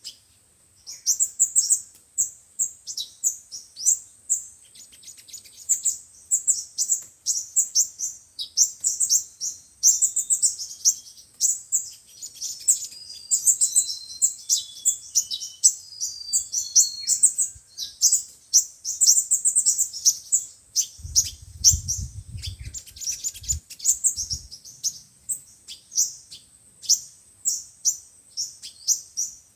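Sunbirds singing in rapid, high, thin chirps and trills, with a few clearer whistled notes in the middle. This is lure song played back to draw wild sunbirds in. A brief low rumble comes about two-thirds of the way through.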